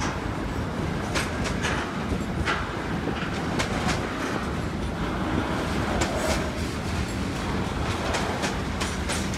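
Container wagons of a freight train rolling past: a steady rumble with sharp clicks of the wheels passing over rail joints, coming unevenly in pairs and small groups.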